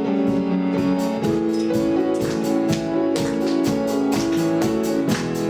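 Church worship band playing without singing: held keyboard chords with guitar, over a steady beat that firms up about two seconds in.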